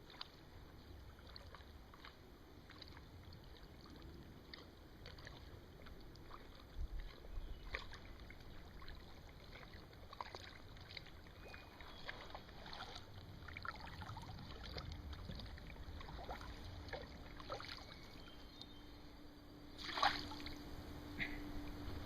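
Kayak paddling: the paddle dipping into the water, with scattered small splashes and drips over a low rumble. A faint steady hum comes in about two-thirds of the way through, and there is a louder splash near the end.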